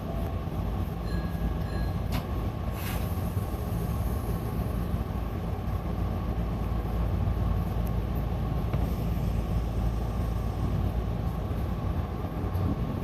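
Hankyu electric commuter train running between stations: a steady rumble of wheels on rail and running gear, with a couple of sharp clicks about two and three seconds in.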